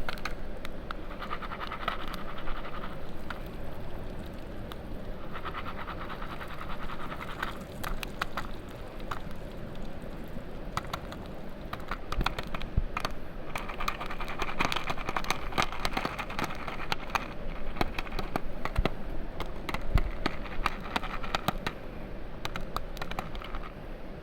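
Popcorn pan being shaken over a campfire, with scraping and rattling in several spells. Sharp pops and crackles come all through.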